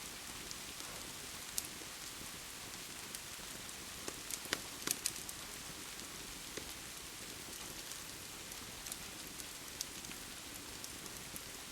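Steady rain with a wood fire crackling over it in sharp, scattered pops, several louder pops coming close together about four to five seconds in.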